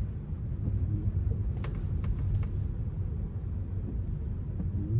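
Low, steady road and tyre rumble inside a Tesla Model 3's cabin on wet pavement, with a few brief clicks about two seconds in.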